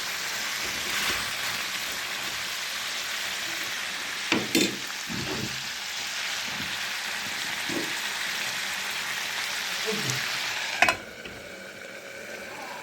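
Food sizzling as it fries in a pan, stirred, with a few sharp clinks of a utensil against the pan; after a louder knock near the end the sizzle drops quieter.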